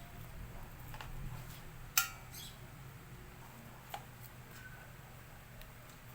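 A sharp clink of hard objects knocking together about two seconds in, with a brief ring, then a lighter tap about two seconds later, over a low steady hum.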